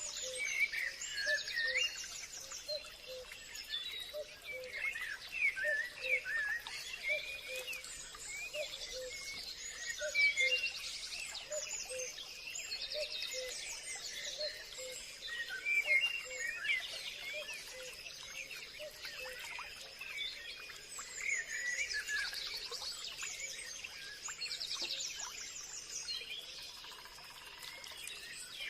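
Forest birdsong: several birds chirping and trilling, with a steady faint high insect hum beneath and a soft low note repeating about twice a second in the first half.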